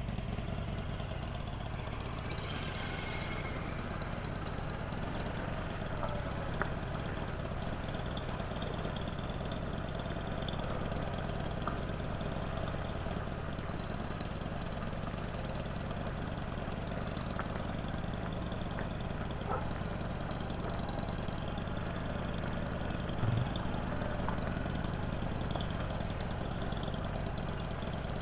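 Honda CB500X's parallel-twin engine running steadily, with a steady hiss over it and a brief low thump near the end.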